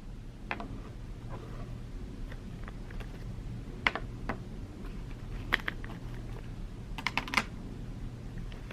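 Scattered keystrokes on a keyboard, a few irregular clicks with a quick run of four near the end, over a steady low hum.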